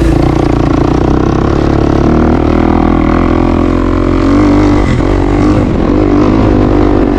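Dirt bike engine running while being ridden on a trail, its note holding fairly steady with small rises and falls in pitch.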